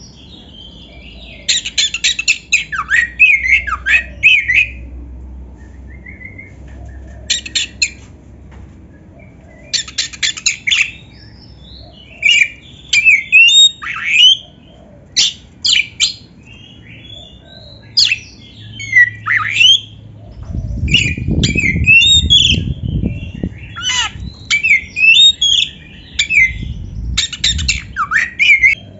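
Oriental magpie-robin (kacer) singing. It gives varied whistled phrases that slide up and down in pitch, mixed with harsh rattling chatters, in bursts with short gaps between them. A low rumble runs under the song for a few seconds about two-thirds of the way through, and again briefly near the end.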